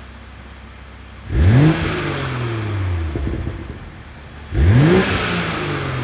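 BMW Z4 M40i's turbocharged straight-six through an ARP valved aftermarket exhaust, blipped twice from idle: each rev climbs sharply and then falls away slowly, with light crackles as the revs drop, the pops the exhaust tune is set up to give.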